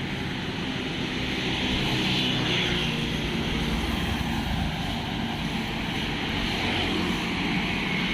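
Steady vehicle engine hum mixed with road and wind noise.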